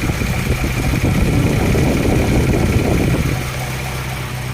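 1951 Packard Patrician 400's straight-eight engine running; it is louder and rougher for about two seconds, then settles back to a steady idle about three seconds in. It idles smoothly enough for a pound coin to stay balanced on the block.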